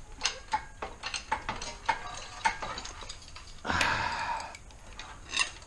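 Hand tools on an engine: a series of light metallic clicks, about three to four a second, as a socket, reducer and breaker bar are fitted and positioned, with a short scrape of metal a little under four seconds in.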